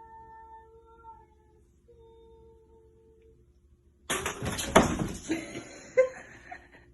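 A cat giving two long, drawn-out yowls at a steady pitch. About four seconds in, a louder, noisy scuffle starts, with a couple of sharp knocks.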